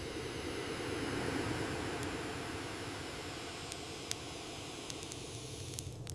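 Blizzard wind rushing steadily, swelling slightly about a second in, with a few faint clicks.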